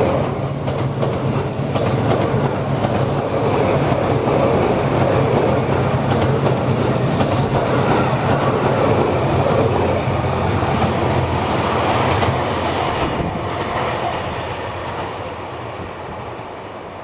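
JR West 87 series Twilight Express Mizukaze diesel-hybrid train running past, wheels on the rails with a steady low drone from its engines. The drone stops about 13 seconds in and the train noise then fades steadily as it moves away.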